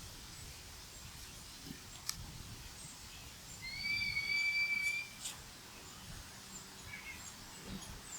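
A bird gives one drawn-out whistled call, about a second and a half long, holding nearly steady after a slight rise. A single sharp click comes a little before it, and a few faint short chirps come later, over quiet outdoor ambience.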